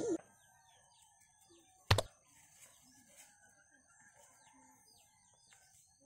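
Birds chirping faintly in short, repeated calls. One sharp click or knock about two seconds in is the loudest sound.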